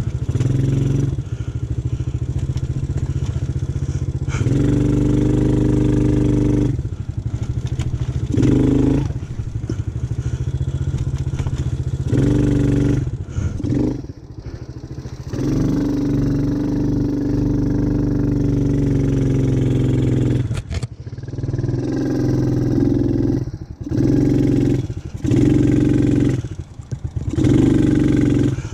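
ATV engine running on a trail ride, the throttle opened and closed again and again: it revs up in bursts of a second or two and in longer pulls of several seconds, and drops back to a lower note in between.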